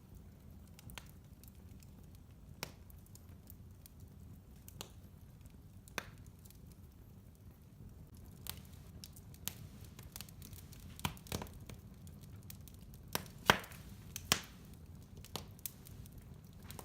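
Wood fire burning in a fireplace: irregular sharp crackles and pops over a low, steady rumble. The pops come more often in the second half, with the two loudest about a second apart.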